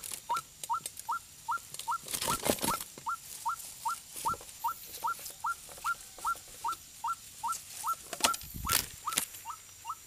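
White-breasted waterhen calling: a steady series of short, rising squeaky notes, about three a second. Two bursts of rustling or scuffling cut in, about two seconds in and again near the end.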